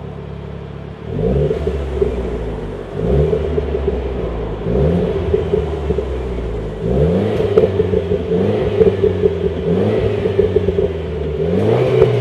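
Renaultsport Clio 200 EDC's 1.6-litre turbocharged four-cylinder running through a Supersprint aftermarket exhaust. It runs steadily for about a second, then the revs climb again and again, a rise every two seconds or so, louder and rougher from about seven seconds in.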